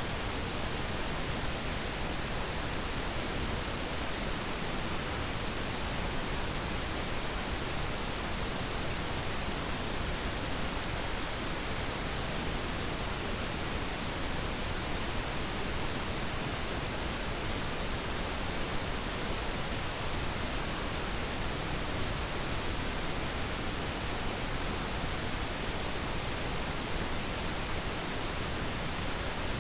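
Steady pink noise: an even, unchanging hiss with no other sound.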